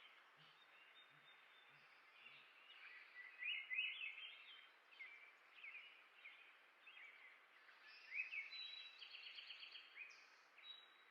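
Birdsong: a songbird singing quick warbled phrases of chirps, with a fast, even trill about nine seconds in.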